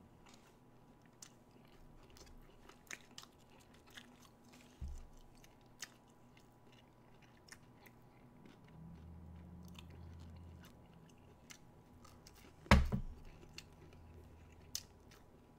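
A person chewing a McDonald's Chicken McNugget, with faint soft mouth clicks throughout. A sudden louder thump comes about three-quarters of the way through.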